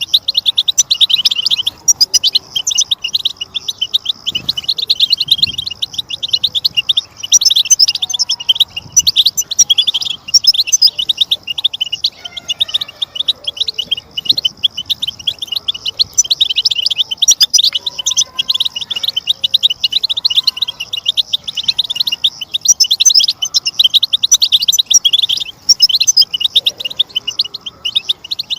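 Several European goldfinches singing together: a rapid, continuous, high twittering chorus of fast chirps and trills, with only brief gaps.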